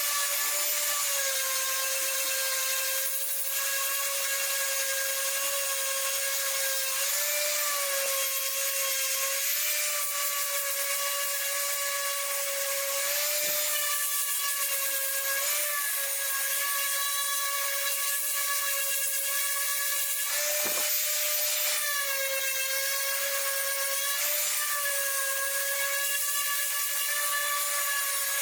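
A high-speed power tool working wood, its motor running with a steady whine that dips briefly in pitch every few seconds as it takes load.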